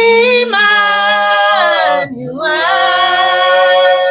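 A woman singing a worship song unaccompanied, holding a long note, breaking off briefly about two seconds in, then holding a second long, steady note.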